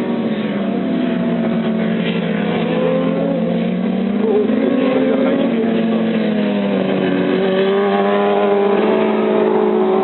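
Several motorcycle engines running at once on a race track, their pitch rising and falling as the riders rev up and shift.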